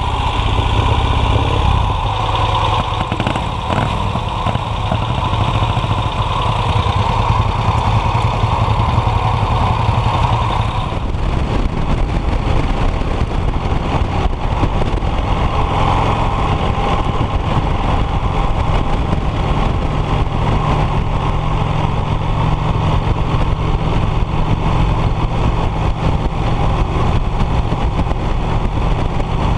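1951 Vincent Rapide's 998 cc V-twin engine running steadily, its sound shifting about eleven seconds in.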